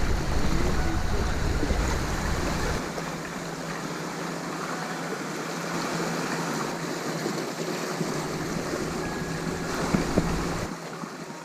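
Sea water washing and surging with surf noise, and wind buffeting the microphone as a deep rumble for the first few seconds and again briefly near the end.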